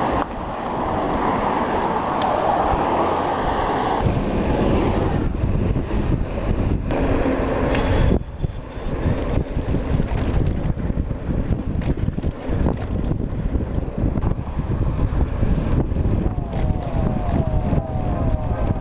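Wind buffeting the microphone and rumble from riding an electric bicycle, with many small knocks and rattles. Near the end a short rising tone repeats several times.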